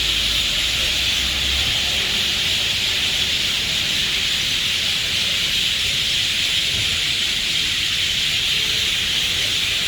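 Steady, high-pitched hissing chorus of wildlife among trees, even in level throughout, with no separate bird notes standing out.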